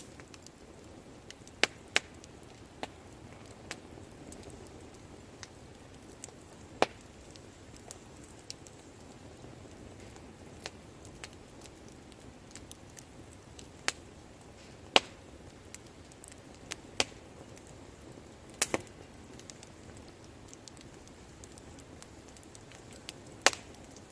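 Wood bonfire burning, a low steady hiss of the flames broken by sharp, irregular crackles and pops from the burning wood every second or few seconds.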